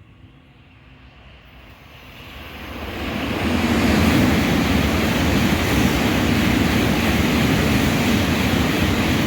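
Sanyo Shinkansen train passing through the station at high speed: a rushing roar that builds over about three seconds, holds loud and steady for about six, and begins to die away at the very end.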